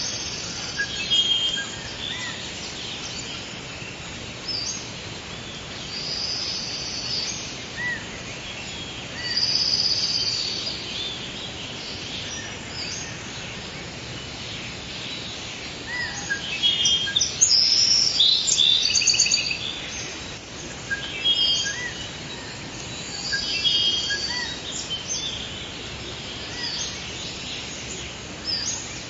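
Forest ambience: several birds chirping and trilling over a steady background hiss.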